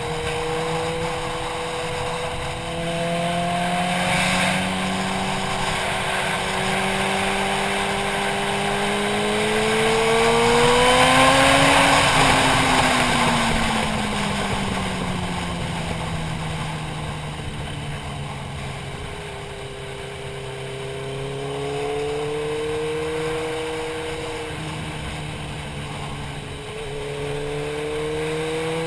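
Motorcycle engine running under way, heard from a helmet-mounted camera with wind rush. The revs climb to a peak about twelve seconds in and ease off, then climb again, dropping suddenly twice later on as the rider shifts up.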